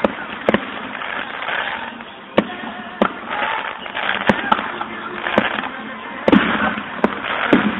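Aerial fireworks shells bursting: about eight sharp bangs at uneven intervals, a second or less apart, with steady noise between them.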